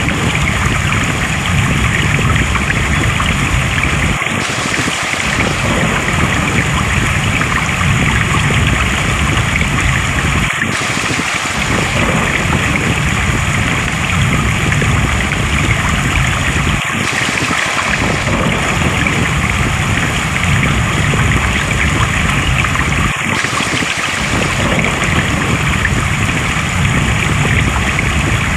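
Flowing stream water, a steady rush and trickle. The same short stretch of water sound repeats about every six seconds, a looped recording.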